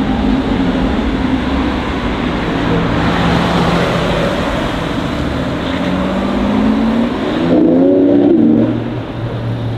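A supercar engine running and then revving as it accelerates: its pitch climbs over a couple of seconds to the loudest point about eight seconds in, then drops away.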